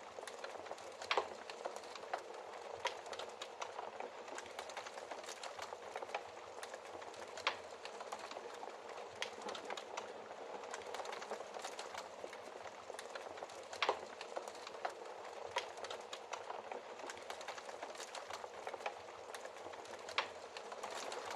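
Wood fire crackling steadily in a fireplace, with sharp pops a few seconds apart, the loudest about 1, 7, 14 and 20 seconds in.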